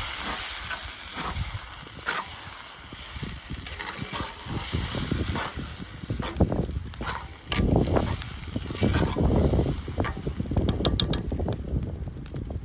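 A spoon stirring and scraping through tomato sauce and diced tomatoes in a cast iron Dutch oven, in uneven strokes, with the pot sizzling on the fire underneath.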